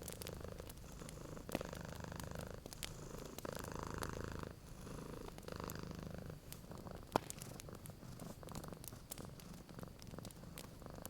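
Domestic cat purring, the low rumble swelling and easing about once a second with its breathing, while a wood fire crackles with scattered sharp pops, one louder pop about seven seconds in.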